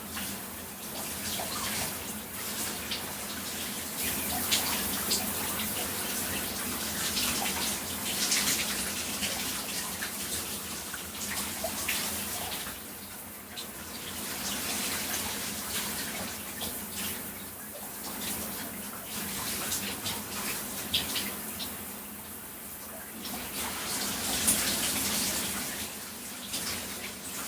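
Shower water spraying onto a person's body, splashing steadily, its level swelling and easing every few seconds as the spray falls differently on the body.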